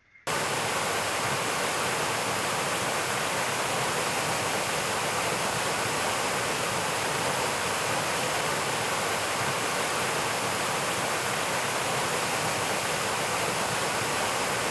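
A steady, even rushing hiss, like static or falling water, that starts abruptly just after the start and holds unchanged.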